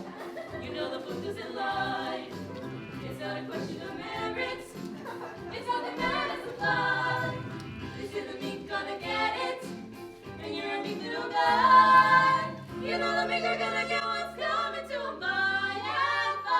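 Several voices singing a musical-theatre number together over backing music, loudest about twelve seconds in.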